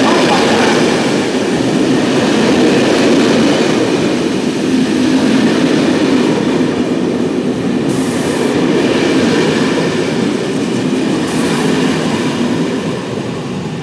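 SNCF TER passenger coaches rolling past at close range on jointed track, a steady loud rumble of wheels on rail that begins to die away near the end as the last coach passes.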